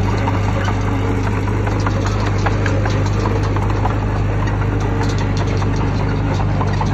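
Heavy construction machine's diesel engine running steadily, with a scatter of short clicks and rattles over it.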